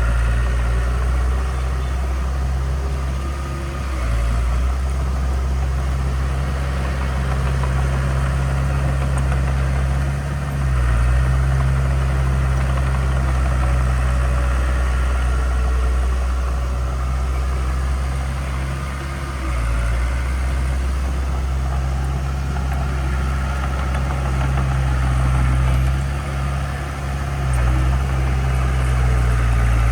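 Heavy diesel engine of earthmoving equipment running steadily with a deep drone, easing off briefly a few times before picking up again.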